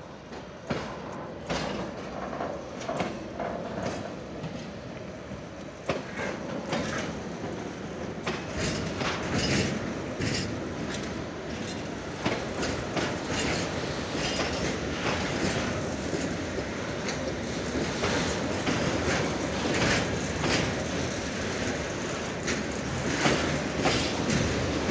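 Freight train of rail tank wagons rolling past, its wheels clacking over rail joints in a continual run of clicks, growing louder.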